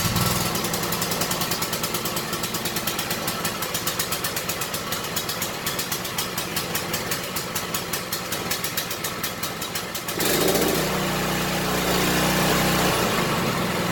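Predator single-cylinder small engine running on its first start, choke set to start, with a fast, even pulsing beat. About ten seconds in it turns louder and steadier.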